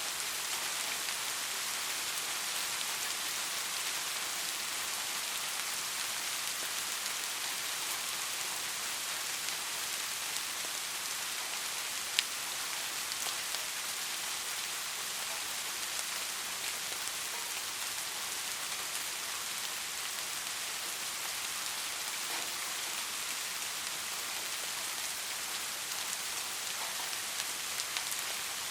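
Steady rain falling: an even hiss with scattered small drop taps, and one sharper tap about twelve seconds in.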